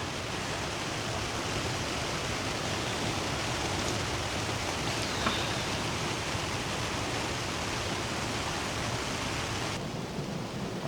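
Steady rush of falling water from heavy rain and a nearby waterfall, an even hiss with no breaks. The high part of the hiss softens near the end.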